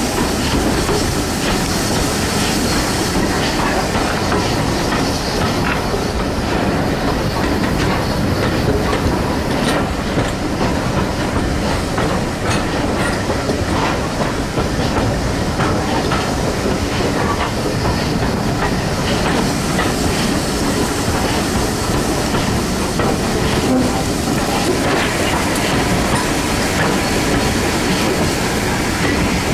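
Steam-hauled passenger train running along the line, heard from an open carriage window: a steady rumble with the clatter of carriage wheels on the rails.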